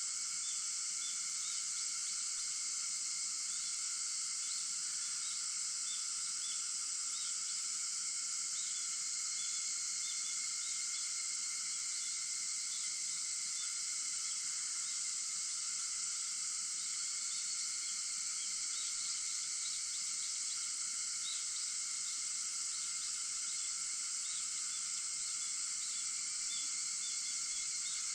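A steady chorus of cicadas, a dense high-pitched hiss that does not rise or fall, with many small short chirps scattered through it.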